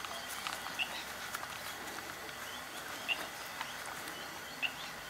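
A bird chirping repeatedly, short high calls every second or so over a steady outdoor hiss.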